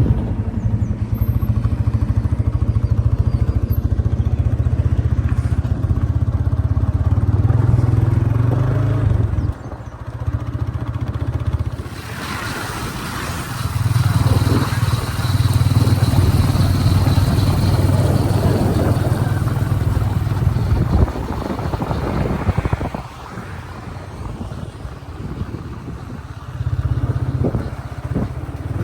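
Backhoe loader's diesel engine working under load, revving up in long spells and dropping back toward idle between them, three times. A harsher, noisier rush joins in about twelve seconds in.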